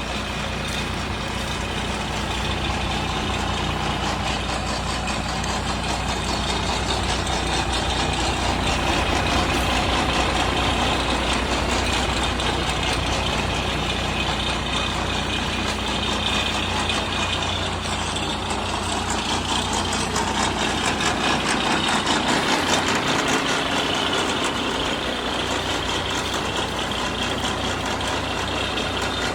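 Tata 713 truck's diesel engine running steadily, with a couple of slight swells in level.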